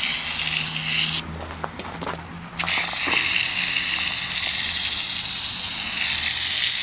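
Hand-pump sprayer hissing as it sprays coil cleaner solution onto an air-conditioner condenser coil. The spray stops about a second in and starts again sharply about a second and a half later.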